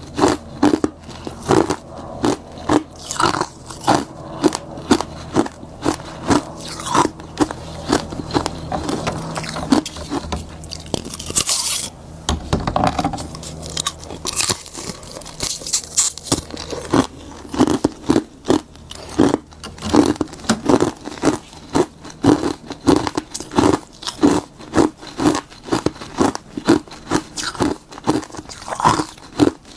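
Close-miked biting and crunching of frozen bitter-buckwheat tea ice, one crisp crunch after another at about two a second. A faint low hum lies underneath until about two-thirds of the way through.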